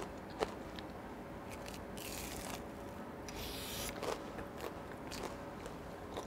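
Close-miked chewing and crunching of a crisp breaded, deep-fried pork cutlet topped with cheese, with scattered small crisp clicks. Two short airy rushes come about two and three and a half seconds in.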